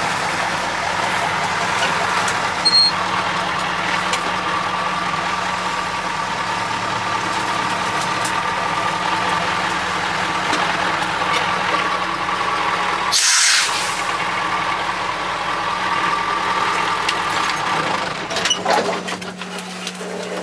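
Cummins 903 V8 diesel of a Ford LNT 9000 truck running steadily, with a short hiss of air about 13 seconds in. The engine sound drops somewhat near the end.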